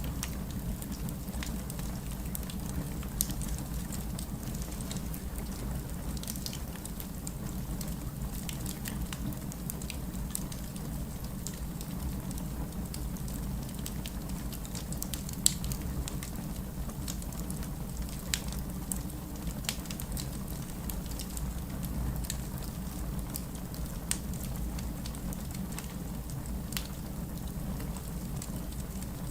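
Steady rain with a low, even rumble, over which a fireplace crackles in scattered sharp clicks, the loudest pop about fifteen seconds in.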